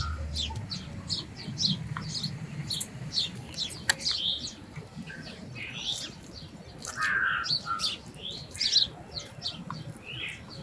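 Small birds chirping in quick, repeated short high chirps, with a single sharp click about four seconds in.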